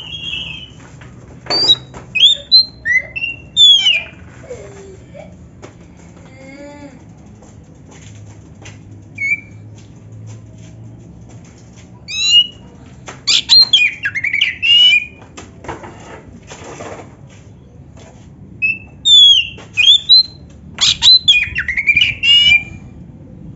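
Oriental magpie-robin (kacer) singing in loud clusters of fast whistled phrases that sweep up and down, with quieter pauses between them; the song is filled with canary-like phrases.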